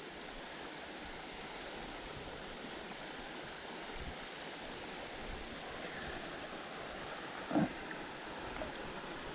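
Creek water running over a riffle: a steady rushing hiss. A short, louder sound comes about three-quarters of the way through.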